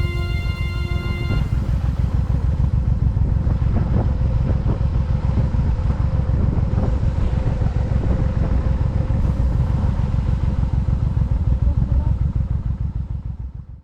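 Honda motorcycle running at road speed, a steady low engine rumble with road and wind noise, fading away near the end. Background music is heard briefly at the start.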